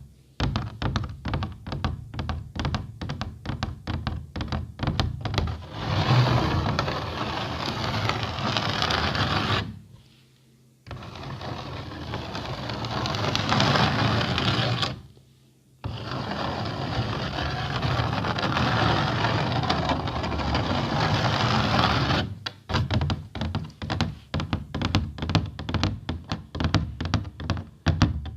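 ASMR tapping and scratching on an object. It starts with quick, rapid taps, then changes to continuous scratching broken by two short pauses, and ends with quick tapping again.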